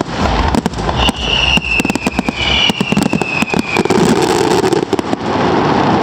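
Aerial fireworks exploding in a rapid, dense volley of bangs and crackles, with a high whistle falling slowly in pitch through the middle; the bangs thin out near the end.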